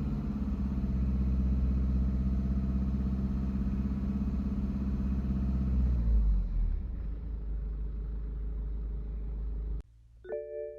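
BMW 320d (G20) four-cylinder diesel engine heard from the driver's seat, running at steady revs, then falling back about six seconds in to a low rumble. Near the end the engine sound cuts off abruptly and a chime begins.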